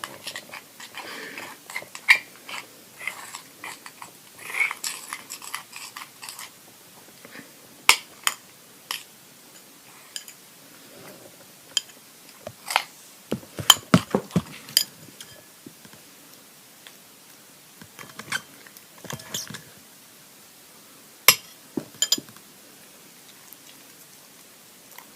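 Glue-and-Tide slime being mixed in a bowl: irregular sticky squelches and sharp clicks, loudest in a cluster about halfway through.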